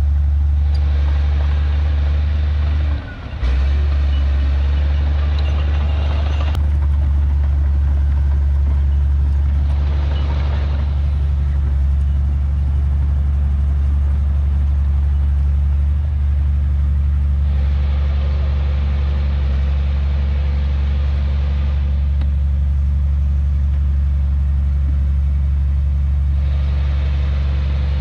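Heavy diesel earthmoving engine running steadily with a deep drone, briefly dipping about three seconds in.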